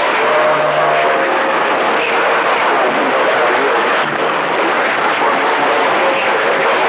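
CB radio receiver hissing with static on an open channel between transmissions, a steady rushing noise with faint whistling tones in it.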